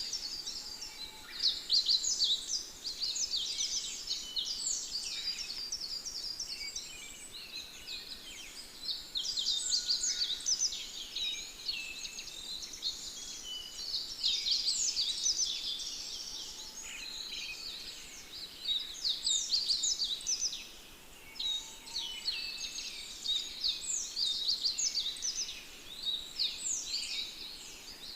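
Birdsong: many birds chirping and singing at once in a dense chorus of quick, high chirps, with a couple of short lulls.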